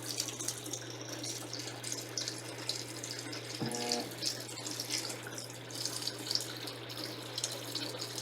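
Electrolux LTC10 washing machine filling, water streaming into the tub under a steady low hum. A short pitched sound comes about a third of the way in.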